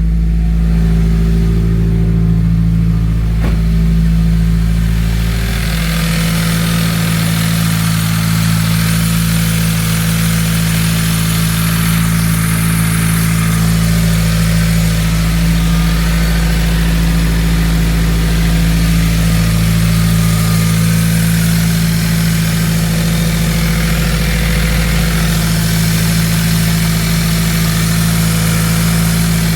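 Subaru WRX's turbocharged flat-four engine idling steadily, with more hiss from about five seconds in. The owner suspects a blown head gasket on the passenger-side cylinder head, with cylinders 1 and 3 running rough.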